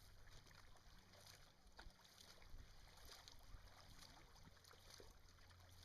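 Faint sound of canoe paddles dipping and pulling through river water, soft irregular splashes over a light steady hiss.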